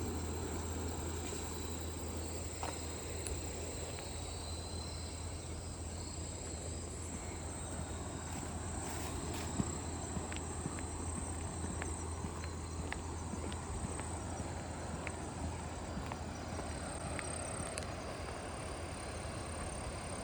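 Insects chirring in one steady, continuous high tone, over a steady low rumbling haze of outdoor noise, with a few scattered light clicks.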